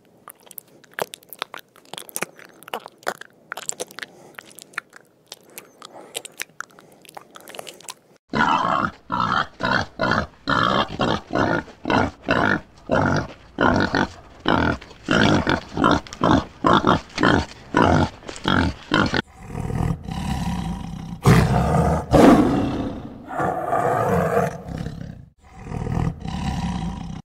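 Faint crackling clicks, then wild boars grunting in a steady run of about two grunts a second, then a tiger roaring, loudest in the final few seconds.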